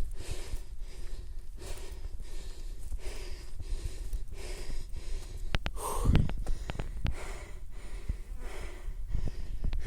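A climber's heavy breathing while hiking uphill, a breath roughly every second, over a low rumble, with a few sharp clicks about six seconds in.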